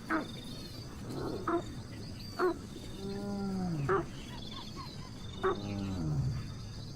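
Animal calls: several short sharp calls, and about three and five and a half seconds in, two low drawn-out calls that fall in pitch over about a second, with faint high chirping above.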